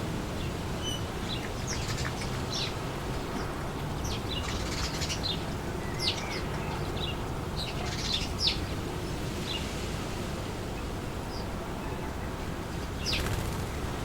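Wind blowing steadily through trees, with many short, high bird chirps and calls scattered over it, thickest in the middle.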